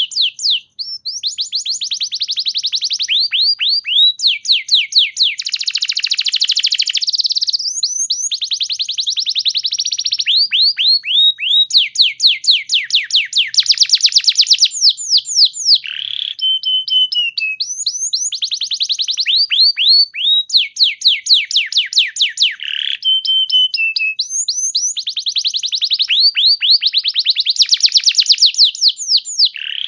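Domestic canary singing a continuous song of fast trills, each a run of rapidly repeated downward-sweeping notes. Three times a slower, drawn-out falling whistle breaks in.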